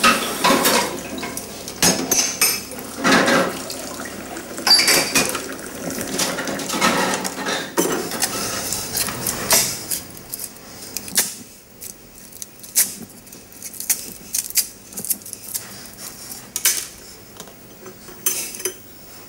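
Café crockery and cutlery clinking and clattering: cups, saucers and spoons knocked together in a run of sharp clinks that is busy for the first half and thins to scattered clinks after about ten seconds.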